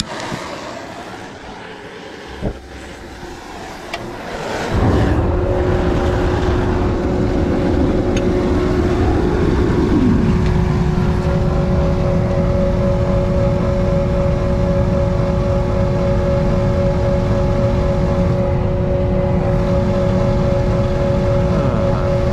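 Homemade crucible furnace burner lighting: a quieter hiss with a single click, then about five seconds in the burner catches and the level jumps to a loud, steady rushing sound with a steady humming tone. It is the furnace's first firing.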